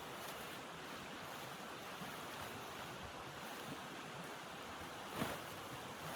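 Steady rushing of blizzard wind, with a brief louder rush about five seconds in.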